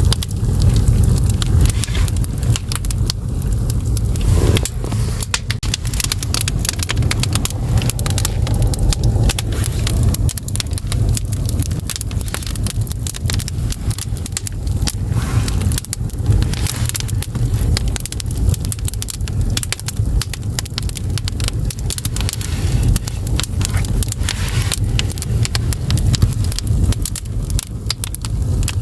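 Split firewood burning in a traditional Korean agungi firebox, crackling and popping irregularly over a steady low rumble.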